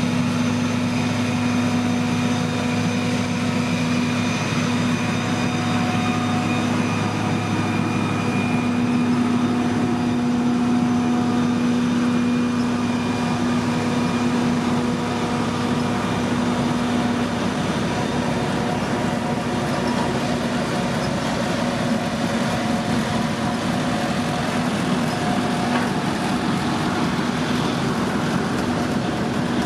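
Engine of heavy road-building machinery running steadily, a constant hum that holds one pitch throughout.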